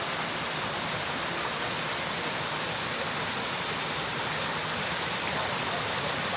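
Steady rush of running water, an even hiss-like wash with no breaks, from a creek or falls.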